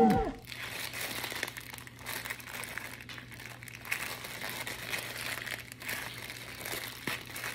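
A clear plastic bag of flour being twisted and squeezed in the hands: soft, irregular crinkling and crackling of the plastic.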